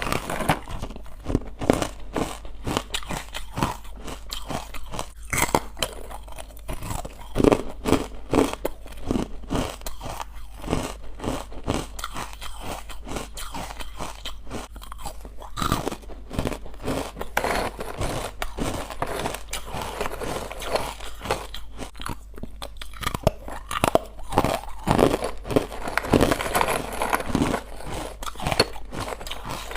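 Close-up chewing and biting of chalky, crunchy white ice bites made from carbonated water: dense, irregular crunching throughout, with louder bouts of bites a quarter of the way in and again near the end.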